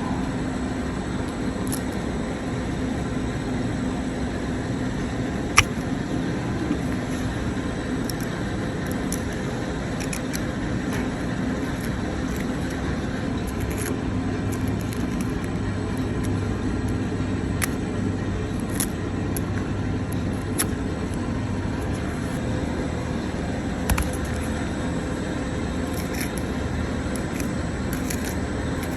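Steady running machine noise with a low hum, broken by scattered sharp clicks and ticks.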